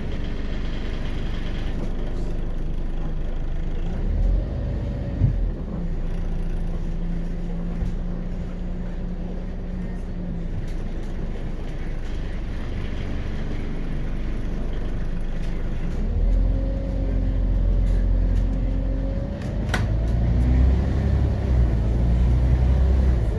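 A Scania CN94UB Omnicity city bus under way, heard on board: its Scania DC9.01 diesel engine and ZF 4HP500 automatic gearbox drone steadily. Twice it pulls harder, with a rising whine, about four seconds in and again from about sixteen seconds. There is a single sharp click near the end.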